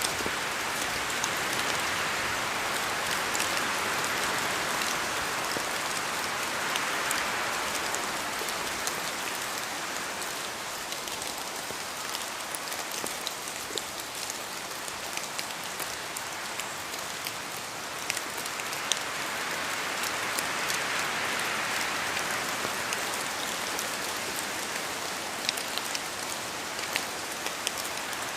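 Steady rain in a forest, with many individual drops pattering and ticking on leaves, and wind swelling in the trees twice.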